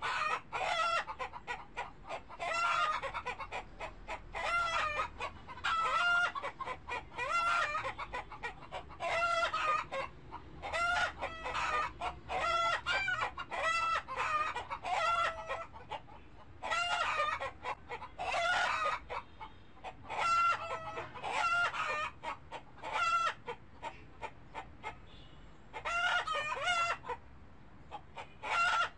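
Chickens calling, with many short pitched calls in quick bouts separated by brief pauses.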